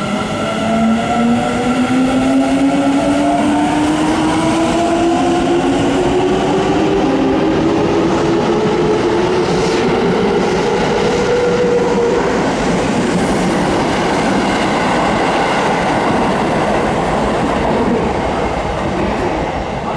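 Seibu 9000 series electric commuter train pulling away and accelerating. Its traction motors whine in several tones that rise steadily in pitch as it picks up speed, under growing wheel and rail noise. After about twelve seconds the whine fades into steady running noise.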